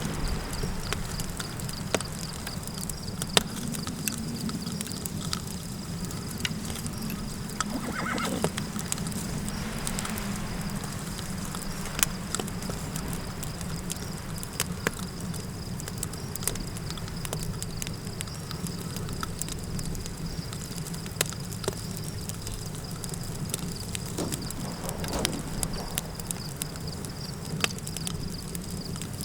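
Campfire crackling with frequent sharp pops over a steady low rumble of desert wind. Two brief animal calls stand out, about eight seconds in and again near the end.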